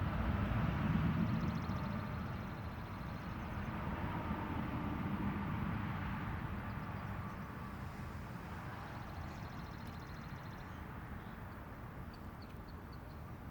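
Steady outdoor background noise that swells about a second in and then slowly fades, with faint high rapid trilling twice and a few short high chirps near the end.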